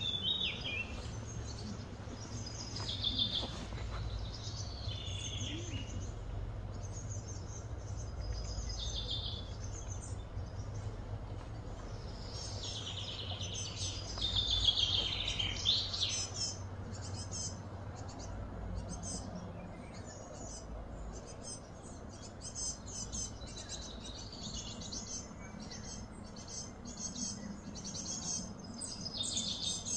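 Birds chirping and calling, with a burst of louder calls about halfway through and quicker short chirps near the end, over a steady low hum.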